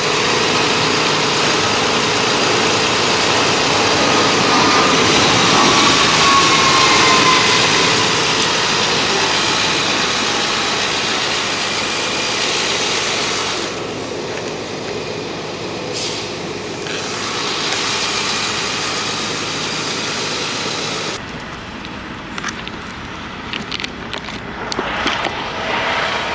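Diesel semi-truck engine running steadily, with the sound changing abruptly about 21 seconds in.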